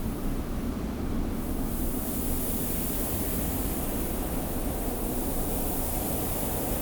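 Steady desert wind with a low rumble and a high hiss of blowing sand, the hiss growing stronger about a second and a half in.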